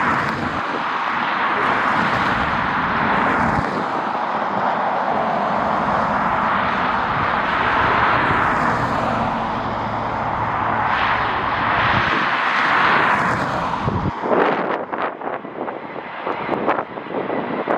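Jet airliner engine noise as an aircraft passes: a loud, steady rushing sound that swells and eases a few times, then stops abruptly about three-quarters of the way through. After that, strong wind buffets the microphone in uneven gusts.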